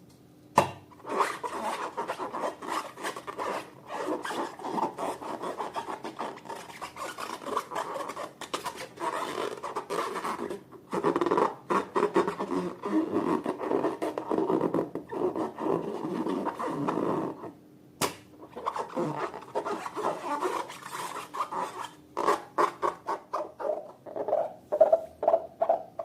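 Hands kneading and squishing slime, a continuous rubbing, squishing sound with a few brief pauses. Near the end it turns into rapid repeated short squishes, a few a second.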